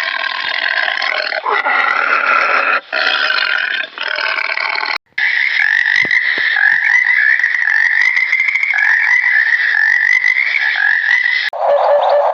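Animal calls from several short clips cut one after another, the longest a dense, pulsing chorus of calls lasting about six seconds.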